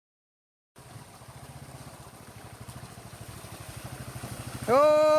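A low, rapidly pulsing engine sound, growing gradually louder, as of a vehicle drawing closer. Near the end a much louder held tone with overtones cuts in.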